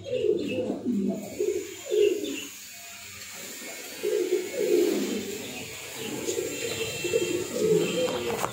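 Low cooing bird calls, repeated every second or two, with faint higher chirps over them.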